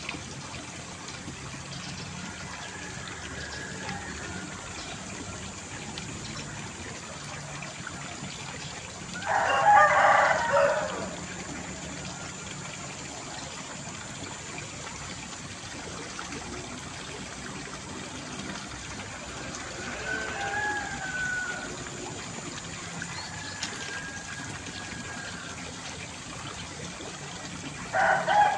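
Rooster crowing twice: one long crow about nine seconds in and another at the very end, over a steady background hiss with a few fainter calls.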